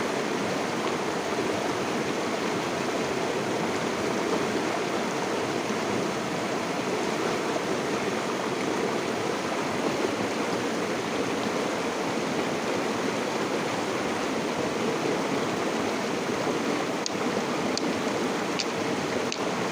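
River water flowing steadily, an even rushing sound with no pauses. A few faint high clicks come near the end.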